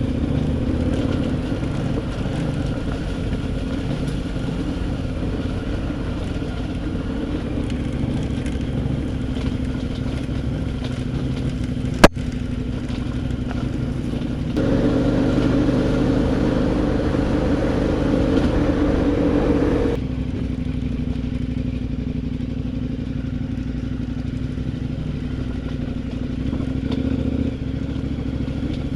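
Adventure motorcycle engine running steadily under way. About twelve seconds in there is one sharp click. The engine sound is louder from about fifteen to twenty seconds in, starting and stopping abruptly.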